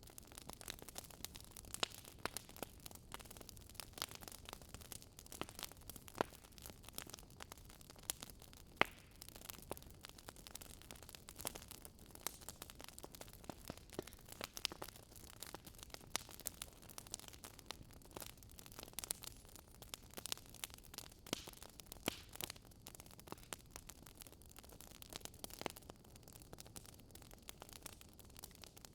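Faint crackling of a burning wood fire: irregular sharp pops and snaps over a soft hiss.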